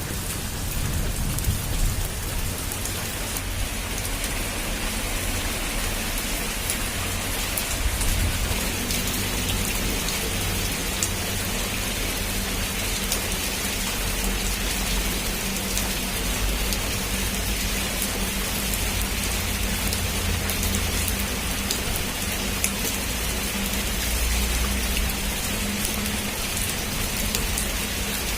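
Heavy rain falling steadily on a rooftop: an even hiss with sharp drop ticks over it and a low rumble underneath.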